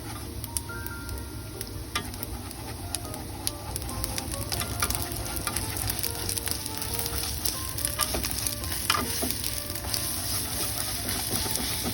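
Food frying in a pan, a sizzle with scattered sharp pops of spattering oil that gets louder about four seconds in. Soft background music plays underneath.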